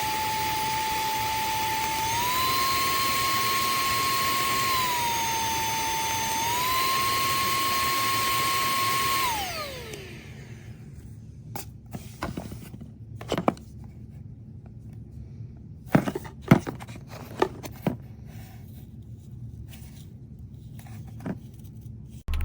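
AX2V cordless handheld vacuum/blower's brushless motor running with a steady high whine, switched between its two speeds so the pitch steps up, back down and up again, then switched off and winding down about nine seconds in. After it stops there are scattered clicks and knocks of the unit being handled.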